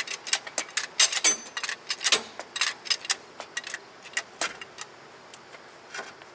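Irregular sharp metallic clicks and clinks, several a second for the first three seconds and then fewer, from tools and metal parts being worked under the car to lower the front subframe.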